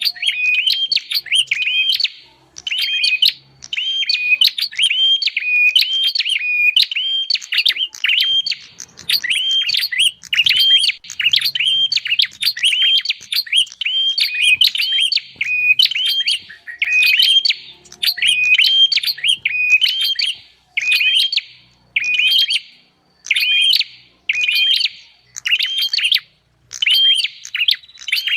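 Prinia (prenjak) calling: sharp chirps repeated quickly over and over in short bursts, as in a looped bird-lure recording.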